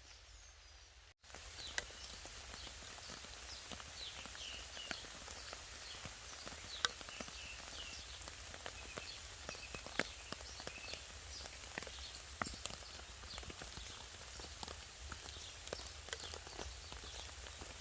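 Light rain in woodland: scattered raindrops and drips tapping irregularly, with small birds chirping. It starts about a second in, after a moment of near silence.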